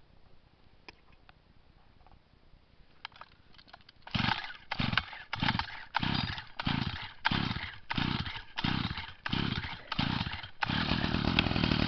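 Stihl MM 55 Yard Boss tiller engine being cold-started on choke. After a few faint clicks, about four seconds in, it gives a string of about ten evenly spaced bursts, then a little over ten seconds in it catches and runs steadily.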